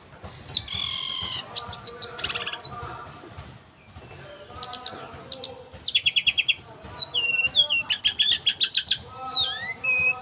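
A tledekan gunung songbird singing a varied song: downward-sliding whistles, rapid runs of sharp high notes and short trills, with a brief lull about halfway through.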